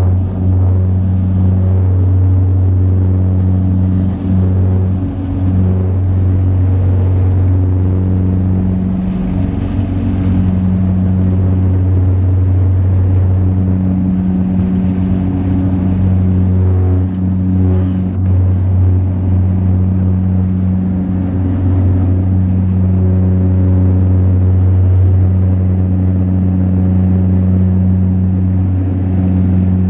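Saab 340B's twin turboprop engines and propellers heard from inside the cabin: a steady low propeller drone with a higher hum that wavers in and out.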